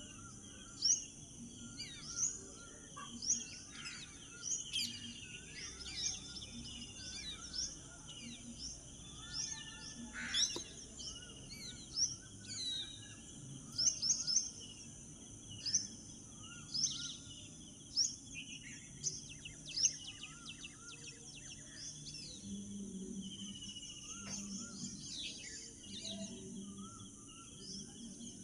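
A flock of small birds chirping together: many short, high chirps overlap, with louder single calls standing out every second or two, settling into steadier chatter after about twenty seconds.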